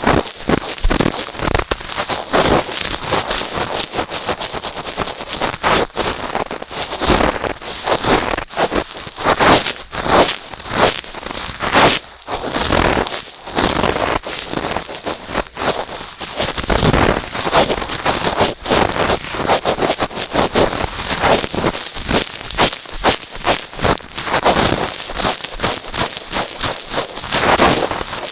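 Cotton swabs rubbing and scraping against the ear of a binaural microphone: a close, dense crackling rustle with many small clicks.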